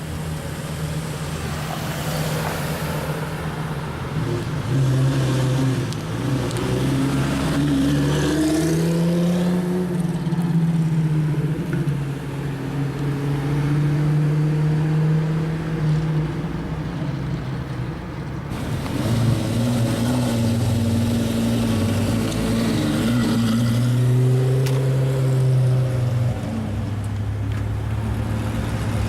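Lamborghini Gallardo's V10 engine through a Kreissieg aftermarket exhaust, driving slowly and revving, its note rising and falling in pitch several times.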